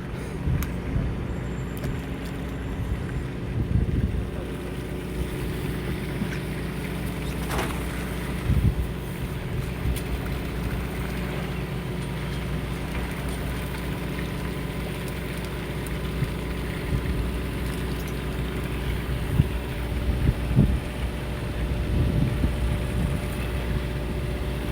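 A fishing boat's engine running steadily with a low, even hum, with wind buffeting the microphone. A few short knocks occur about 4 s, 8 s and 19 to 22 s in.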